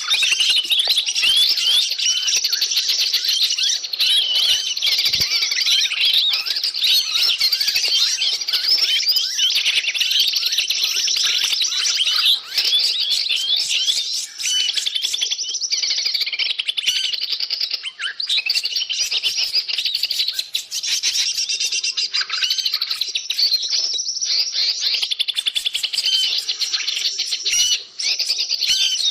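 A dense, continuous chorus of many small birds chirping, trilling and squeaking over one another, a noisy, agitated flock of forest birds played as a lure to draw wild birds in.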